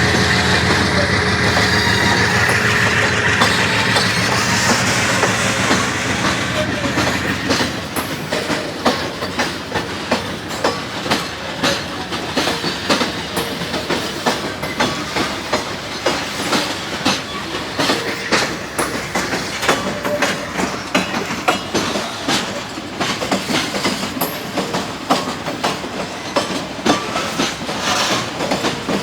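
Diesel freight train passing: the locomotive's engine drone for the first several seconds, then the freight wagons rolling by with a continuous clickety-clack of wheels over the rail joints.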